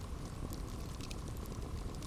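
Campfire burning with a steady low rumble and a few light crackles.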